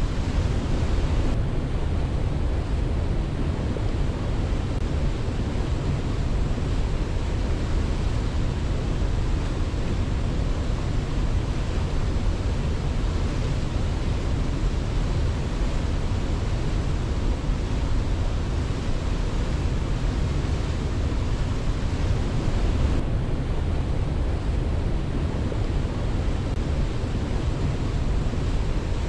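Waterfall: a steady, unbroken rush of falling water, deep and full, with no birdsong or other sounds standing out.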